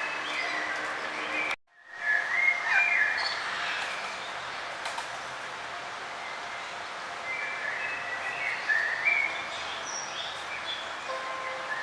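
Small songbirds chirping in short bursts over a steady outdoor noise bed, with the sound cutting out for a moment about a second and a half in.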